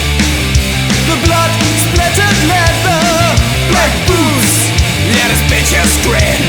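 Heavy metal band playing an instrumental passage: distorted electric guitars, bass and drums, with a lead line that bends and wavers in pitch.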